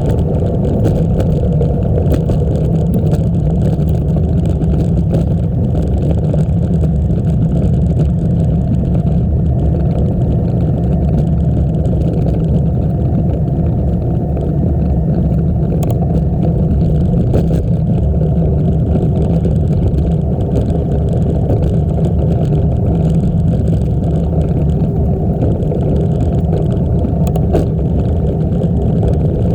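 Steady wind rumble on the microphone of a camera carried on a moving bicycle, with a few faint clicks.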